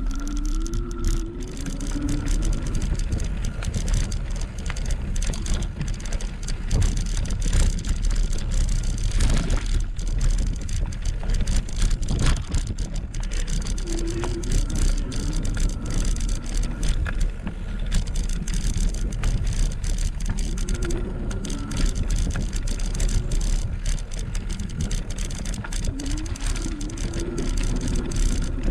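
Wind buffeting a bike-mounted action camera and tyre noise on the road while an e-bike is ridden, heavy and rumbling, with a thin steady whine running underneath.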